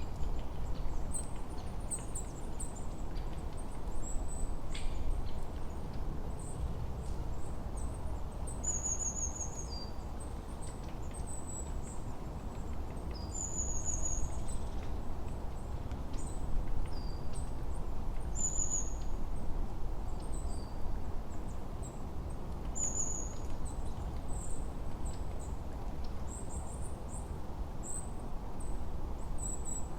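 Forest ambience of small songbirds chirping and twittering in high, thin calls, one bird repeating a short falling note every four to five seconds, over a steady low rush of wind.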